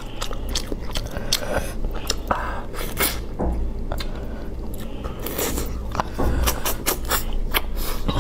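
Close-up, wet chewing and lip-smacking of a person eating spicy braised meat, with irregular sharp mouth clicks.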